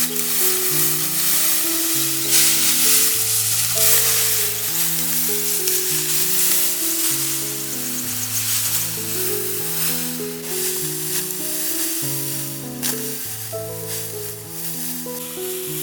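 Food sizzling as it fries in a hot pan, under background music with a slow melody of held notes.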